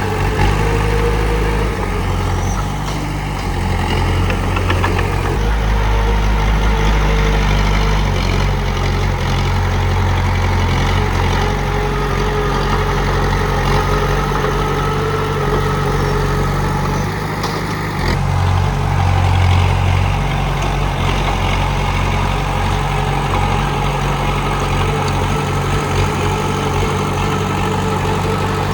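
Komatsu D31P bulldozer's diesel engine running steadily, its note shifting a few times, with an abrupt change about eighteen seconds in.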